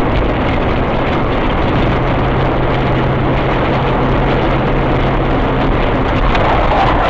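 Car engine and road noise while driving: a steady rumble with a low engine hum, starting abruptly.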